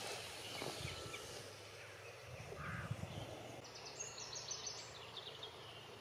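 Wild birds calling faintly: a quick run of short, high notes about four seconds in, over steady outdoor background noise with a couple of low rumbles.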